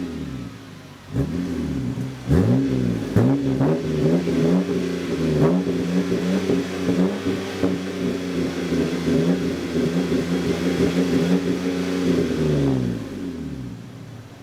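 BMW E90 328i's inline-six engine revved through a Detail Addict mid-pipe and Eisenmann race muffler: three quick blips of the throttle, then revs held high and steady for about nine seconds, falling back toward idle near the end.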